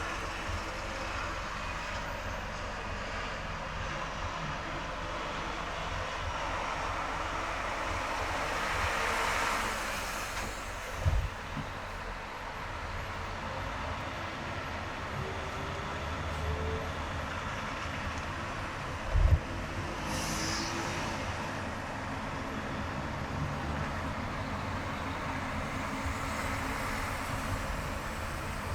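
Steady road and traffic noise from a car driving on a multi-lane highway. It swells as a vehicle passes at about nine seconds, with two short low thumps about eight seconds apart.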